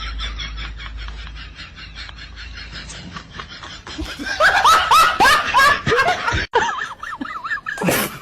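Laughter: a run of quick repeated laughing notes, then a louder burst of falling "ha" notes about four seconds in. It cuts off suddenly, followed by a warbling pitched sound and a short loud burst near the end.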